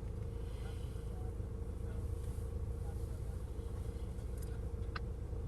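Engine running steadily: a continuous low drone with a constant hum, and a single short tick about five seconds in.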